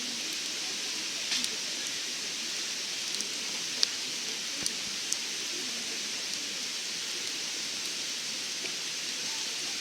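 Wood fire burning in a FireFly backpacking wood stove: a steady hiss with a few sharp, scattered crackling pops.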